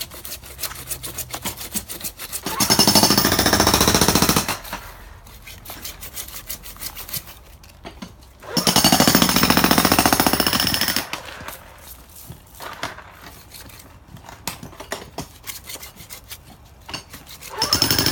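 Jackhammer breaking concrete in short runs of rapid hammering: about two seconds in, again at about eight and a half seconds, and once more near the end. Lighter scattered knocks come in between.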